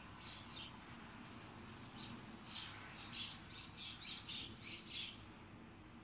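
A bird calling: two short high notes just after the start, then a rapid series of about eight short notes from about two and a half seconds in, ending about a second before the end.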